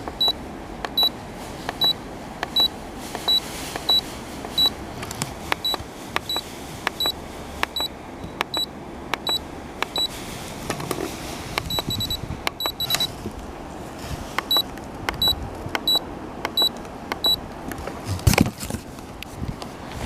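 Mitsubishi MR-E55R six-door refrigerator giving short, high electronic beeps, about one every 0.7 seconds with a few pauses and a quick run of beeps in the middle, among light clicks. A single loud knock comes near the end.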